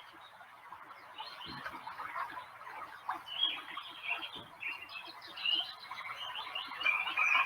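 Birds chirping: many short, high calls and quick twitters overlapping throughout.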